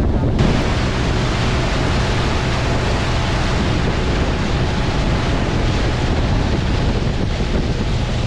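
Boat motor running steadily with a low drone, heard under a loud rush of wind on the microphone and water noise that comes in about half a second in.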